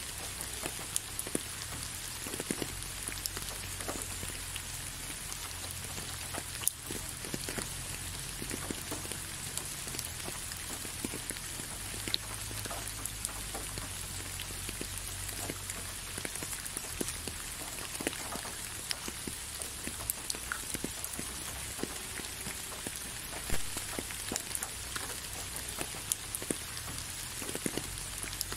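Steady rain falling, with many sharp individual drop hits over a soft hiss and a low rumble underneath.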